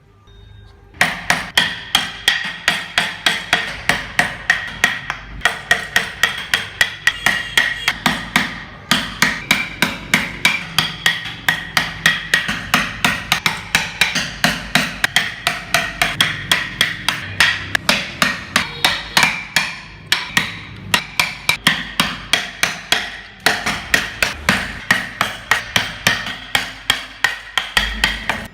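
Mallet striking a carving chisel into wood in a fast, steady rhythm of about three to four blows a second, starting about a second in with a few brief pauses.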